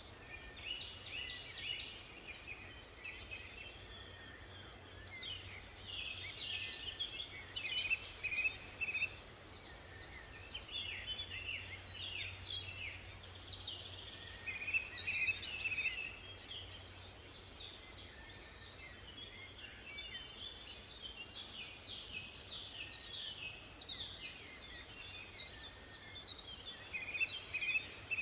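Several small songbirds singing and chirping at once: a busy chorus of short, quick high notes over a steady faint hiss.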